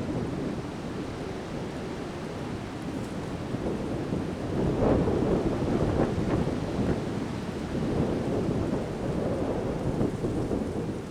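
Strong wind gusting in a storm, buffeting the microphone with a low rumble that swells and falls. A stronger gust comes about five seconds in.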